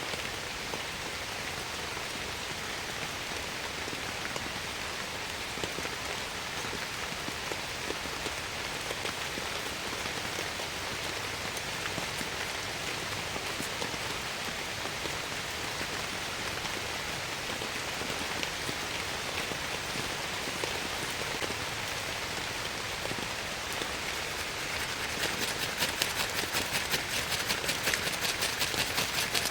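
Steady heavy rain falling. From about 25 seconds in, a quick patter of louder, closer drops joins in.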